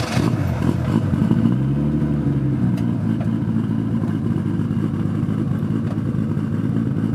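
BMW E30's engine running just after being started, heard at the exhaust. The revs rise and fall once about two seconds in, then it settles into a steady idle.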